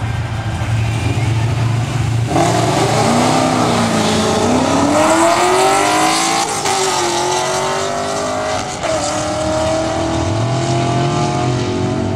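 Two street vehicles, a red car and a black SUV, idling on the drag strip start line, then launching at full throttle about two seconds in. Their engine notes climb steeply, drop back at each upshift, and climb again as the cars pull away down the track.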